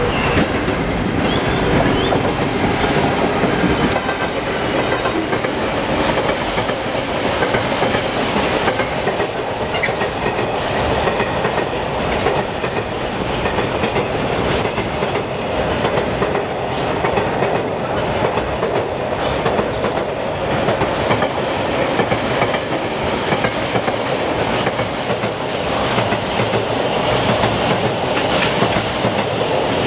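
Intermodal container freight train rolling past, its flat wagons' wheels clattering steadily over the rail joints.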